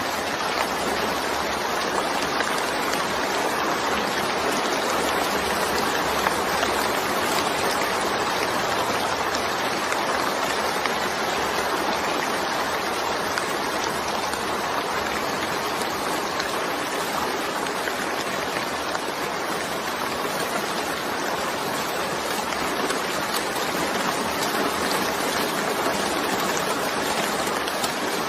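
Steady rain, a dense even hiss without a break, with no thunder or single drops standing out.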